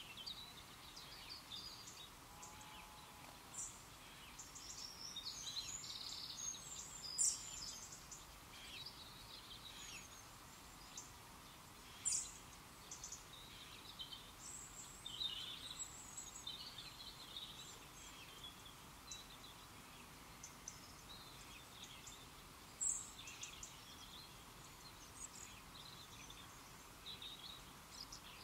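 Small birds chirping and calling throughout over a faint steady hiss, with three sharper, louder calls standing out.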